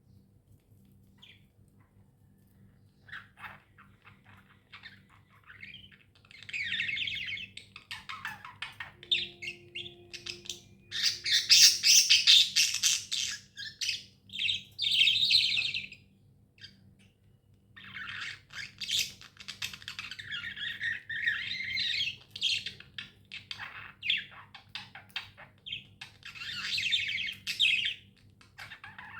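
Budgerigars chirping and chattering in rapid bursts. The first few seconds are quiet, and there are short pauses between spells of chatter.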